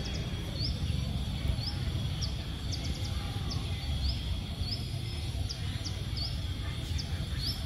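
A bird chirping: short, high chirps, some rising and some falling, repeated irregularly about twice a second. Under them run a steady high insect drone and a low rumble.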